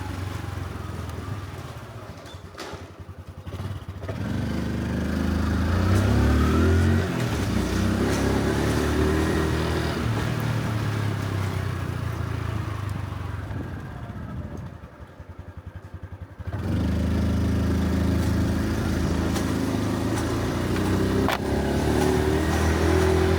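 Honda Super Cub C125's single-cylinder four-stroke engine on the move. It drops to a low putter early, picks up about four seconds in and holds steady, eases off to a putter again a little past halfway, then pulls away once more.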